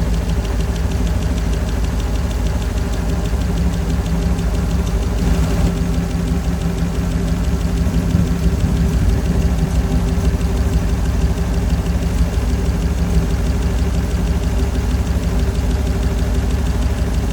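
Flathead Ford engine with twin Holley 94 carburetors idling steadily and smoothly, which the owner believes is running rich.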